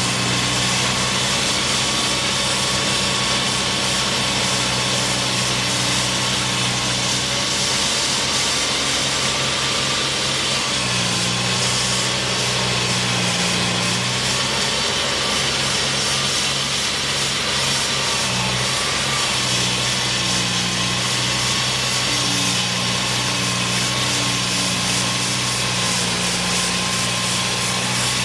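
An engine running steadily, with a constant droning hum that shifts slightly in pitch a couple of times.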